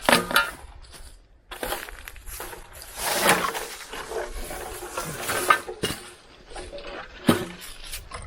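Scrap junk being handled in a pile: irregular clanks, knocks and scraping rattles of metal pieces being pulled out and moved.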